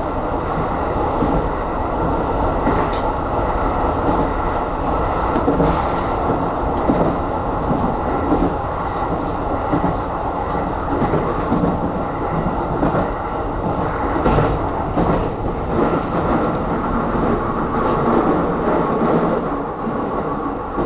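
Aonami Line electric train running between stations, heard from inside the car: a steady rolling rumble of wheels on rail with scattered short clicks.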